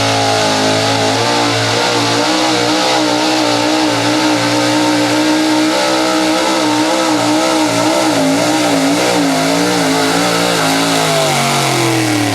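Big-block V8 of a pulling truck held at full throttle while it drags the sled down the track, its pitch wavering up and down. The revs drop away near the end as the pull finishes.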